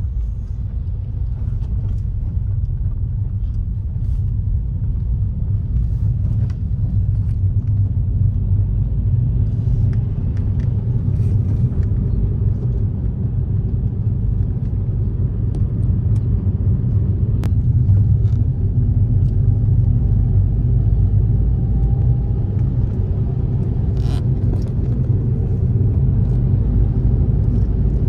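Motor vehicle driving along a highway: a steady low rumble of engine and road noise.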